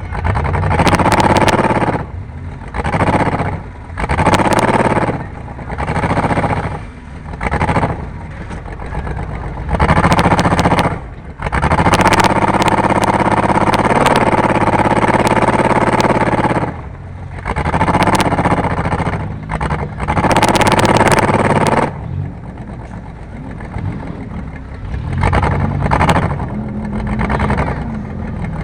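Race car engine accelerating hard in repeated short bursts, easing off between them, with one longer sustained pull about halfway through and a quieter stretch near the end.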